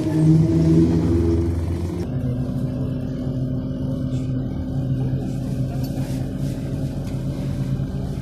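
Scania OmniLink CL94UB city bus's diesel engine heard from inside the cabin, working hard as the bus accelerates; about two seconds in the engine note changes and settles into a steady run.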